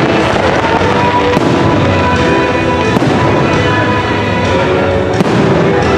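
Fireworks display: aerial shells bursting with a few sharp bangs, over loud music accompanying the show.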